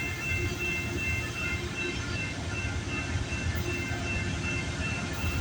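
Diesel-hauled CPKC freight train's locomotives rumbling by at a level crossing, with the crossing bell ringing in a rapid, even repeating pattern over the engine noise.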